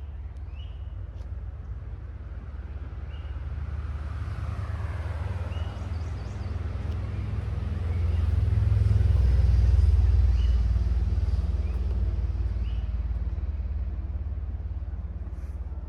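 A vehicle passing by: a low rumble that slowly swells to a peak about nine to ten seconds in, then fades away again.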